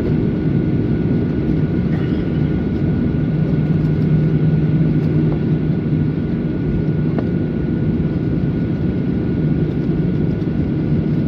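Steady jet-engine and airflow noise of a Boeing 737 heard inside the passenger cabin: a continuous low hum with a thin, steady high whine over it.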